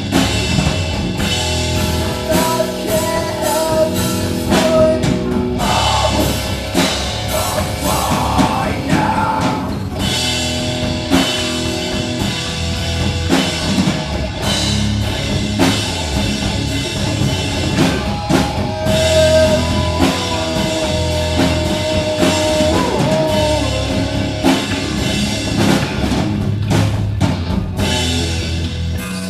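A live rock band playing a song: a drum kit keeping a steady beat under guitar, bass and singing.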